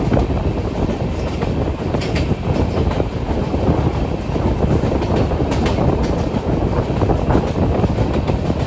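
Express passenger train running at speed, heard from beside a coach: a steady rumble of steel wheels on the rails, with a few sharp clicks about 2 and 5.5 seconds in.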